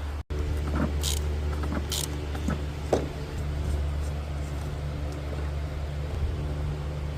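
A car engine idling steadily, with two short hisses and a few light clicks over it.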